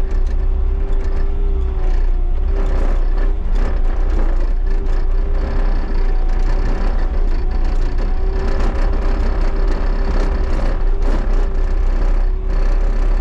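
Bobcat T77 track loader's diesel engine running steadily under load, with a steady whine over the rumble and frequent rattling clatter from the machine.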